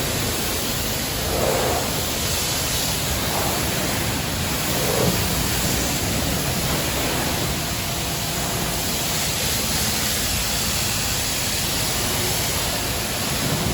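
High-pressure wash wand at a self-serve car wash spraying water onto a car, a steady rushing hiss.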